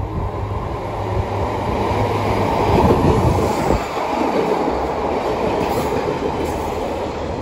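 Diesel multiple unit passing through the station, including Class 142 Pacer 142083: a steady low diesel engine hum with wheel and rail noise, loudest about three seconds in.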